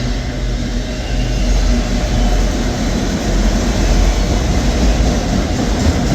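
Slow freight train of empty autorack cars rolling past close by, a steady loud rumble.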